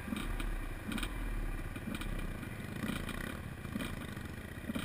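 Off-road dirt bike engine running, its note rising and falling unevenly with the throttle, with some clatter.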